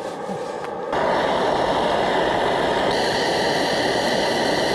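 Steady hissing roar of a gas camp stove burner, stepping louder about a second in.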